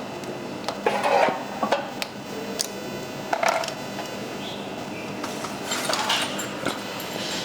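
Irregular metallic clinks and knocks of hand tools and metal parts during bicycle steering assembly, a dozen or so sharp taps spread unevenly.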